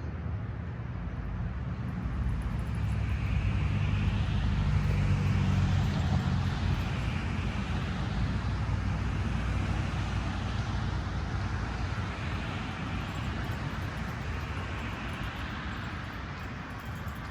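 A motor vehicle's engine running nearby, a steady low rumble that swells to its loudest about five seconds in and then slowly fades.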